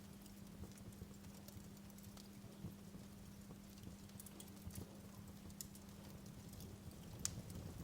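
Wood fire in a fireplace crackling softly, with scattered sharp pops and one louder pop near the end, over a faint steady low hum.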